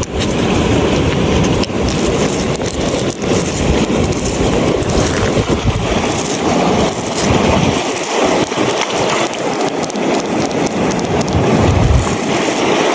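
Loud, steady rushing of water with a deep rumble underneath.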